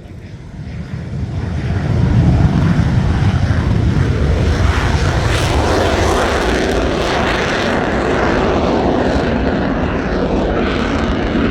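Lockheed U-2S's General Electric F118 turbofan at takeoff power, a jet roar that builds over the first two seconds as the aircraft rolls down the runway and then holds loud and steady.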